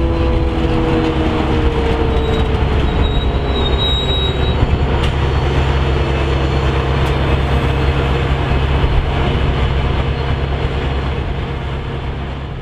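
Train rolling past on the rails, a steady heavy rumble of wheels and cars with a brief thin wheel squeal a few seconds in. A lower tone falls in pitch at the start, and the sound dies away near the end.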